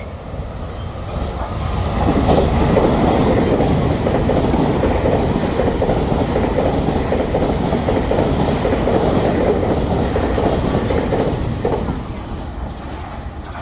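A train passing through the station without stopping, its wheels clattering over the rails. It builds up over the first couple of seconds, stays loud for about ten seconds, and fades near the end.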